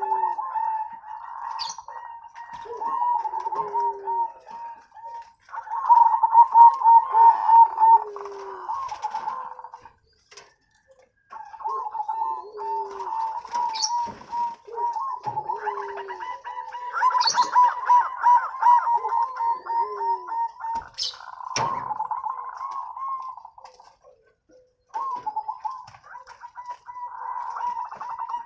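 Zebra dove (perkutut) song: phrases of rapid rolling coos with short, lower falling notes beneath, stopping briefly about ten seconds in and again near the end.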